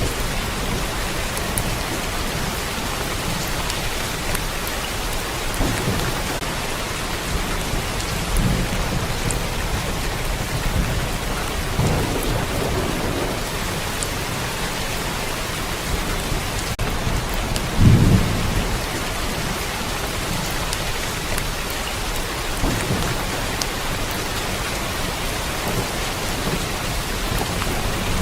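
Steady rain falling, with several low rumbles of thunder. The loudest rumble comes about eighteen seconds in.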